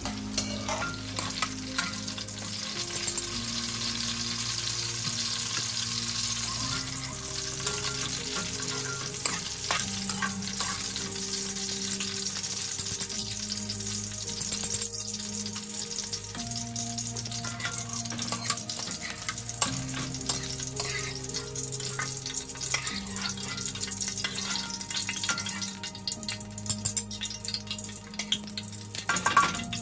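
Bitter gourd slices frying in hot oil in an aluminium wok, a steady sizzle, with light clinks and scrapes of a wire skimmer and ladle against the pan as the slices are lifted out.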